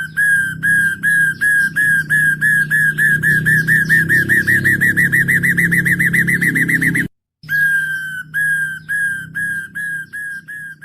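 Hill myna whistling one short note over and over, quickening to a fast trill, breaking off for a moment, then repeating it more slowly as it fades.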